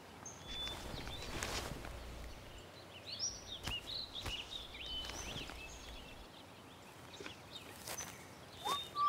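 Woodland ambience with birds chirping in short high calls, most of them between about three and six seconds in and again near the end. A brief rustle comes about a second in, and a few soft knocks follow.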